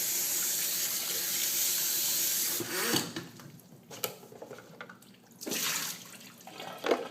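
Tap water running steadily into a Hoover SteamVac's dirty-water tank to rinse it, stopping about three seconds in. A shorter rush of water follows about two seconds later.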